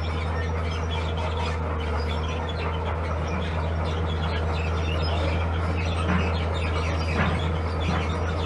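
Diesel engine of a heavy construction machine running steadily with a low drone, with scattered short high chirps over it.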